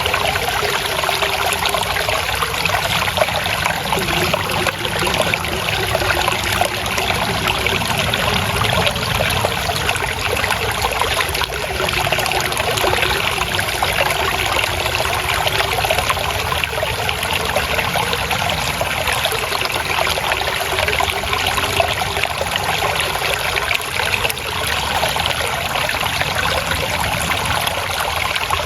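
Water flowing and trickling steadily over rocks, a continuous burble of a small stream.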